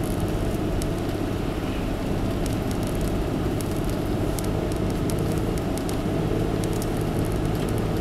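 Steady engine hum and tyre noise heard from inside a car being driven on snowy roads, with faint scattered ticks.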